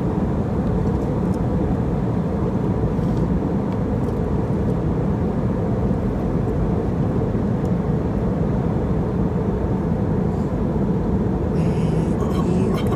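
Airliner cabin noise in flight: a steady, even rumble of the engines and airflow with a faint constant hum.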